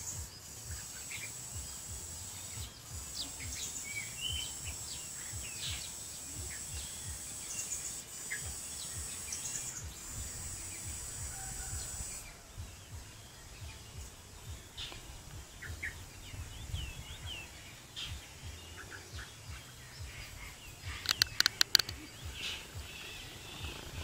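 Birds chirping now and then over a low rumble of wind on the microphone. A steady high-pitched whine or hiss sounds during the first half and stops about halfway. Near the end there is a quick cluster of sharp clicks.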